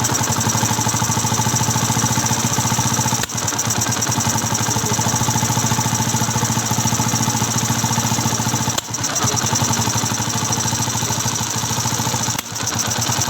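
Yamaha FZ v1's single-cylinder carbureted engine running, with a few brief drops in the sound. The bike has a misfire problem.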